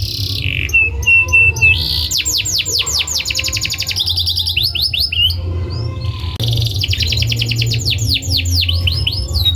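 Domestic canary singing a fast, continuous song: rapid trills of repeated falling notes, with a short run of steady whistled notes about a second in. A steady low hum runs underneath.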